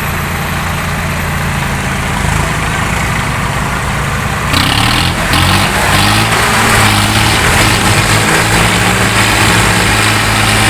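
Diesel tractor engines running under heavy load in a tug-of-war pull. About four and a half seconds in, the sound gets louder and the engine note starts wavering up and down.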